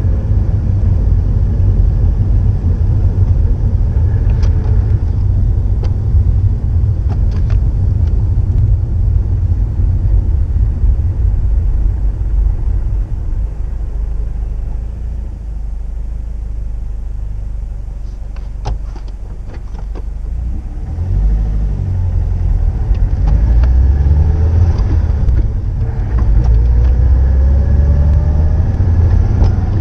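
Subaru GDB Impreza WRX STI's EJ20 boxer four running through the STI genome muffler, a deep low rumble. It drops back in the middle, then revs rise again in steps about 21 seconds in.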